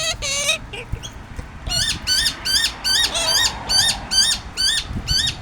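A bird calling a rapid series of short, identical, hooked chirps, about three a second, starting a little under two seconds in. A few fainter high calls come in the first second.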